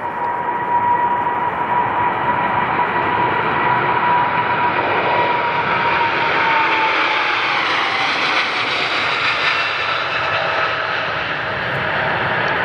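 Widebody jet airliner's engines passing close by: a broad jet roar with a steady whine that drops in pitch a little past the middle as the aircraft goes by.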